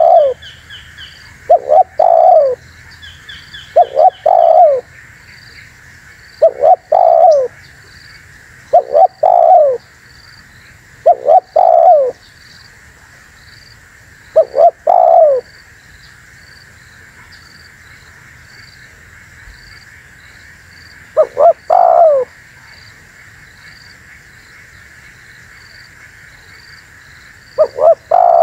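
Spotted dove (tekukur) singing its cooing song: about nine loud phrases, each a couple of short notes then a longer falling coo, coming every two to three seconds, with a pause of several seconds after the middle. Behind it runs a faint steady high hiss and faint, regular high chirps.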